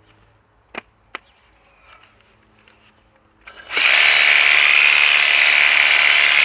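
Two sharp clicks, then a Worx WG633 Hydroshot cordless pressure washer starts about three and a half seconds in and runs steadily and loudly, its brushless motor pumping water out through the spray.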